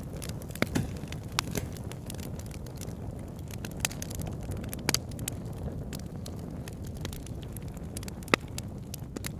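Wood fire burning in a fireplace: a steady low rumble of flames with irregular crackles and sharp pops. The loudest pop comes near the end.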